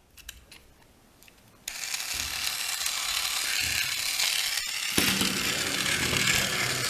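Small battery-powered Plarail toy train's electric motor and plastic gears whirring steadily, switched on suddenly about a second and a half in.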